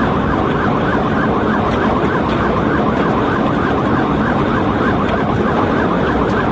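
Police siren in rapid yelp mode, its pitch sweeping up and down about three times a second without a break, over steady engine and road noise from the cruiser in pursuit at highway speed.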